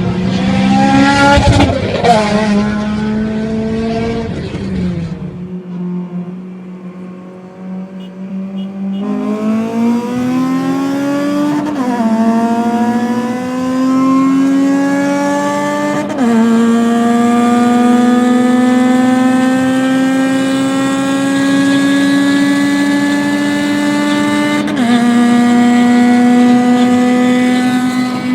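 Honda K20 four-cylinder engine running hard: a short loud stretch of revving that cuts off a few seconds in, then the engine pulls through the gears, its pitch climbing steadily and dropping sharply at three upshifts, the last after a long pull.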